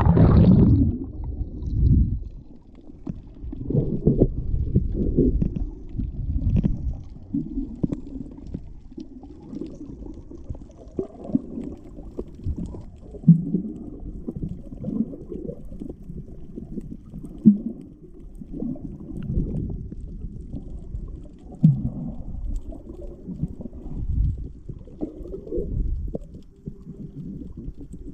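Muffled underwater sound from a microphone held below the sea's surface: irregular low rumbling surges and gurgles of moving water.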